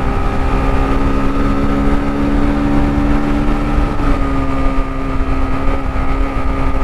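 Sinnis Terrain T125's small single-cylinder engine running steadily at high revs under way, with wind rumble on the microphone. Its pitch eases slightly lower about four seconds in.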